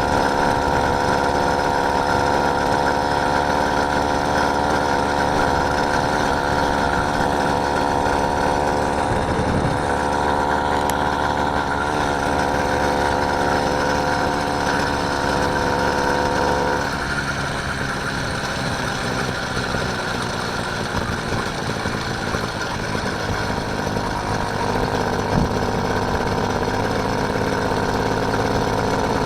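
Small engine of a motorised bike running steadily while riding, its note easing off and turning a little quieter about two-thirds of the way through.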